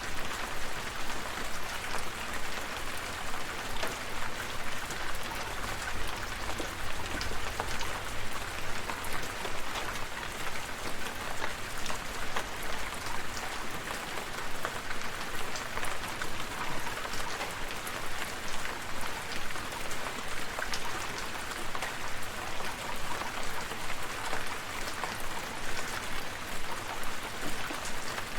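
Steady rain, a dense hiss of many separate drops striking a surface. A low rumble sits under it and fades out about halfway through.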